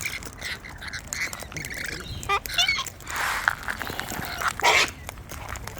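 Wild cockatoos squawking and chattering at close range: short chirps and a quick run of pitched calls, then two loud, harsh screeches, one about three seconds in and one near the end.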